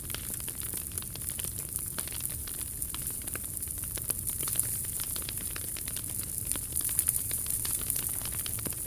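Wood campfire crackling: frequent irregular small pops and snaps over a steady hiss.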